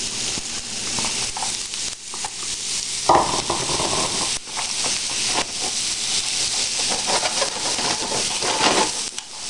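Diced rutabaga sizzling in hot oil in a nonstick frying pan, with a silicone spatula scraping and stirring the cubes around the pan.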